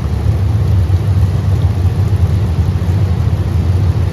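Car engines running as a steady, loud low rumble.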